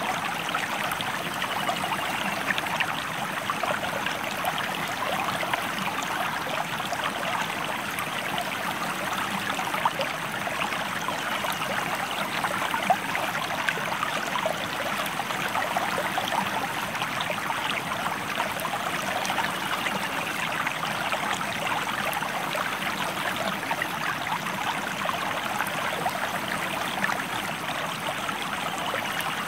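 River water flowing: a steady, even babble of running water with many small splashes and trickles.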